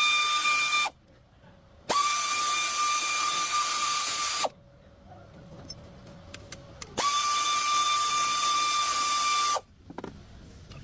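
A power tool motor running in three bursts of about two and a half seconds each, with a steady high whine. The first burst is already running and cuts off about a second in; the others start about two and seven seconds in.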